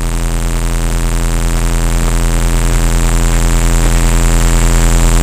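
A loud, steady, engine-like hum with a fine pulsing beat, growing slowly louder.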